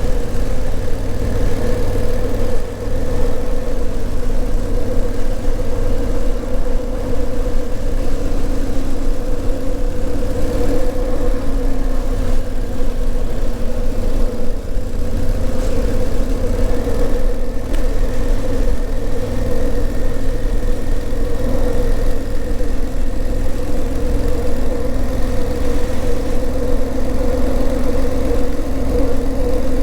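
Honda CRF1000L Africa Twin's parallel-twin engine running steadily under way at an even engine speed, with a steady low rumble beneath it.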